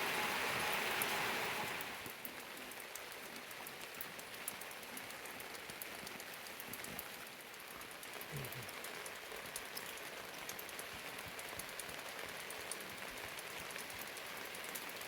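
Rain falling steadily, a hiss of rain with many small drop ticks. It is louder for about the first two seconds, then settles to a softer, even fall.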